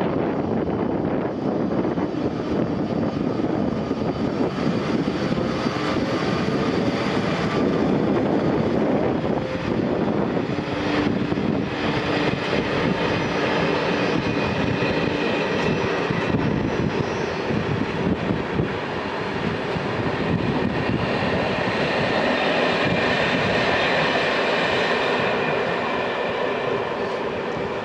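Electric locomotive pulling away with a train of passenger coaches, its motors humming as the coaches roll past with steady wheel-on-rail noise. A high whine joins in during the later part.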